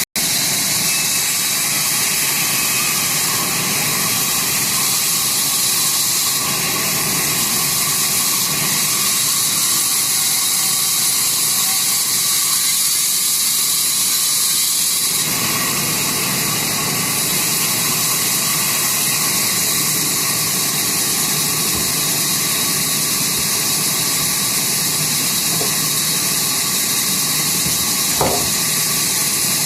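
Sawmill saw machinery running steadily, a loud even hissing whir, with a faint knock near the end.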